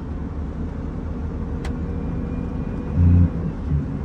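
Scania truck's diesel engine and road noise heard inside the cab, running steadily on the downhill. There is a single sharp click about one and a half seconds in and a brief louder low sound around three seconds in.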